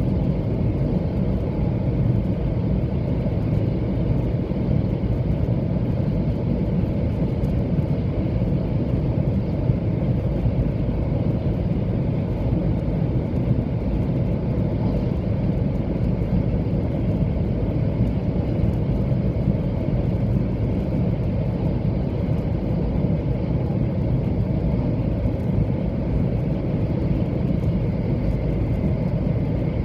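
Cabin noise of a 700 Series Shinkansen running at speed: a steady rumble with a faint high whine above it.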